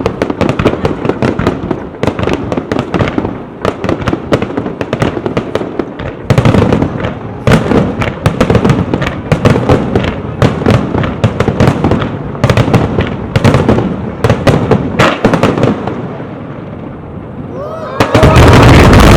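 Fireworks display: dense, rapid crackling and popping of bursting shells, then a loud deep boom near the end.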